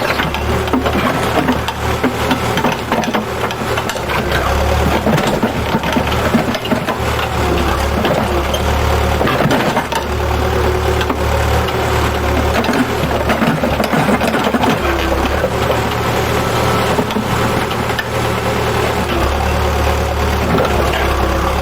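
Engine of a work machine running at a water-main repair, its low hum easing off and coming back a few times, with scattered knocks and clatter over it.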